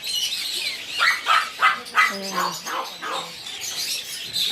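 Caged birds calling, with high chirping throughout. From about a second in comes a quick run of sharp, short calls, about three a second.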